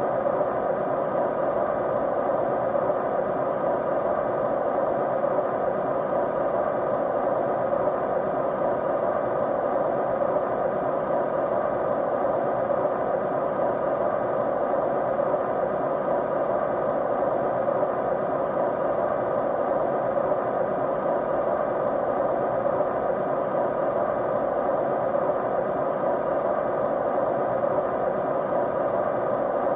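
Steady white noise: an even, unchanging rushing sound, strongest in the middle range with little high hiss.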